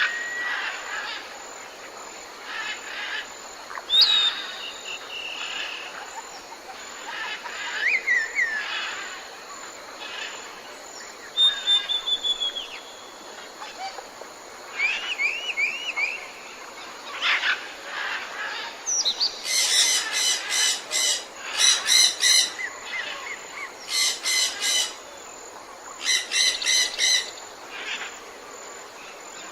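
Several birds calling and singing: scattered whistles, short trills and chirps. In the last ten seconds come four bursts of a rapid, rattling pulsed call.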